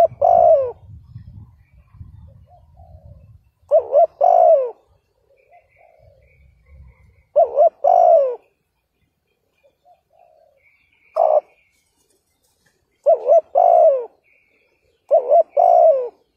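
Spotted dove (chim cu gáy) cooing: repeated two-part coo phrases about every four seconds, six in all, one of them a shorter single note near the middle.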